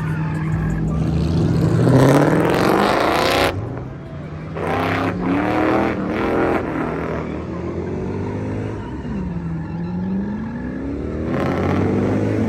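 Car engines revving hard and accelerating. The pitch climbs steeply about two seconds in, the loudest moment, which cuts off a second and a half later; it climbs again a few seconds after, and a slower climb builds near the end.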